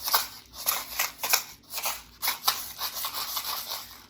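Homemade rain stick, a cardboard toilet paper roll with dry rice inside and parchment paper taped over the ends, shaken back and forth: the rice rattles and swishes against the cardboard and paper in repeated bursts, about two to three a second.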